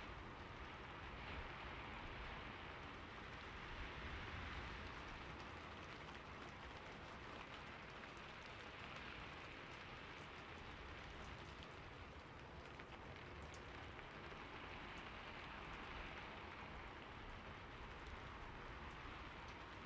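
Steady rain falling on a roof, an even patter of drops.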